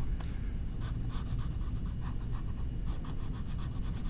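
Orange coloring tool rubbing back and forth on paper as a small area is colored in, a few scratchy strokes a second. A steady low hum runs underneath.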